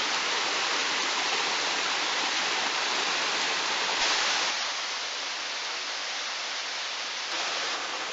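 Steady rushing of a waterfall cascading over rock. It surges briefly about four seconds in, then runs on a little quieter and thinner.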